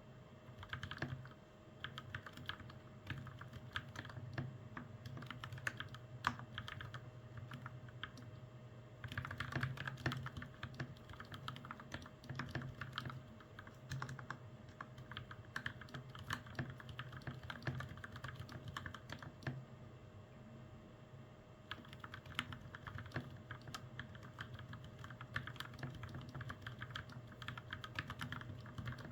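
Typing on a custom mechanical keyboard fitted with lubed Gateron Milky Yellow Pro switches and PBT keycaps: a fast, continuous run of key clicks in bursts, easing off briefly twice.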